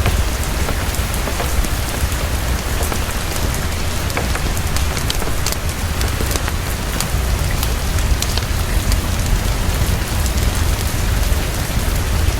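Heavy, steady rainfall, dense with small sharp ticks of drops, over a constant low rumble.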